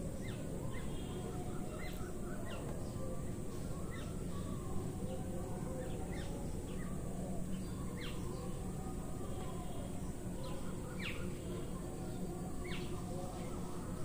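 Small birds chirping: short, high, falling calls scattered every second or so, over a steady low background noise.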